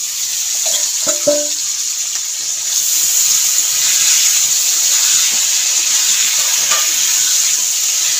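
Potato wedges frying in hot oil in an iron kadai: a loud, steady sizzle that swells about three seconds in, once the pan is uncovered and the potatoes are stirred with a spatula. About a second in, a short metallic clank as the steel bowl covering the pan is lifted off.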